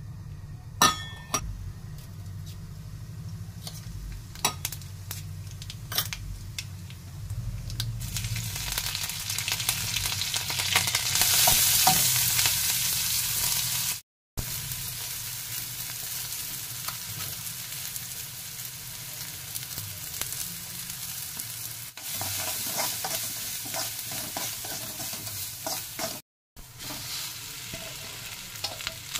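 Onions and green chillies sizzling in hot oil in an aluminium kadai while a steel spoon taps, stirs and scrapes the pan. The sizzle swells loudest about ten to thirteen seconds in, and the sound breaks off briefly twice.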